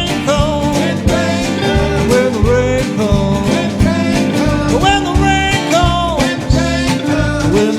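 Roots band playing an instrumental break: a lead line with sliding, bending notes over strummed guitar, bass and a steady beat.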